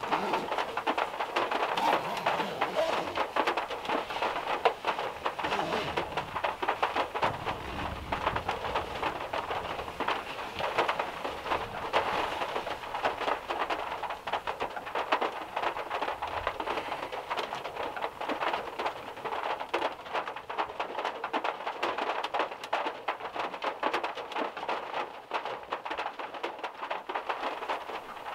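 Heavy rain drumming on the steel roof of a VW Beetle, heard from inside the small cabin as a dense, steady patter of countless drops. A low rumble comes in about seven to nine seconds in.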